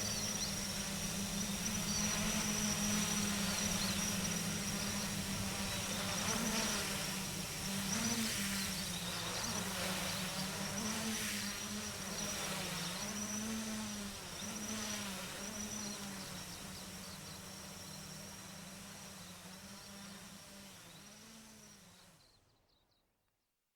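A small UAV's electric motors and propellers buzzing in flight, the pitch wobbling up and down as the autopilot adjusts thrust during an automatic landing. The buzz fades gradually, then cuts off suddenly near the end.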